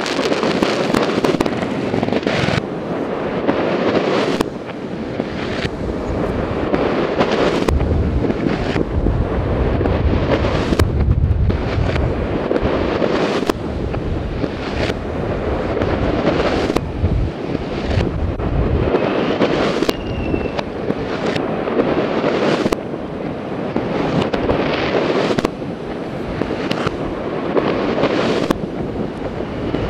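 Fireworks going off over a city: a long run of sharp bangs, about one every second or two, each trailing off in an echo, over continuous crackling and distant pops.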